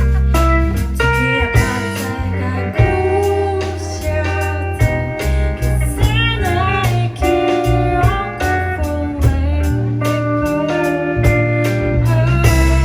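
A band playing a blues-style song: guitar with held and bending notes over bass and drums.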